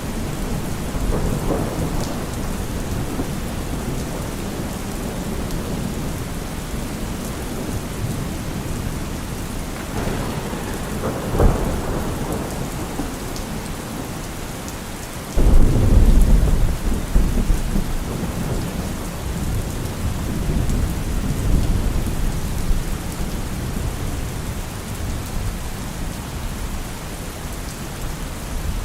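Steady heavy rain with thunder rumbling in it. A short crack comes about eleven seconds in, and a sudden louder thunderclap about halfway through rolls away over a few seconds.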